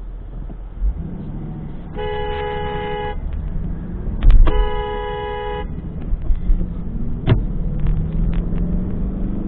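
Car horn honked twice, each blast about a second long, in a two-note tone, over steady engine and road rumble. A loud sharp knock comes just before the second honk, and a lighter click follows a few seconds later.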